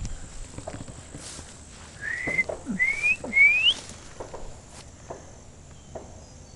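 Three short whistled notes in quick succession about two seconds in, each sliding upward in pitch, the last rising highest and loudest. A steady high insect-like drone runs underneath.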